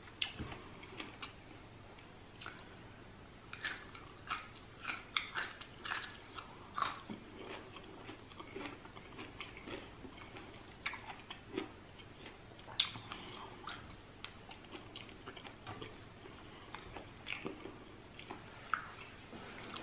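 A person biting and chewing roasted asparagus: a run of short, crisp clicks and crunches, clustered in two spells a few seconds apart, with quieter chewing between.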